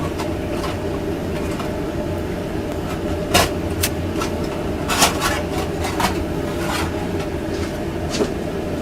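A steady machine hum with a constant low tone, broken by a few sharp clicks and knocks.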